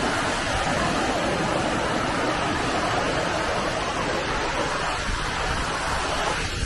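The River Dee's flowing water, a steady rushing sound.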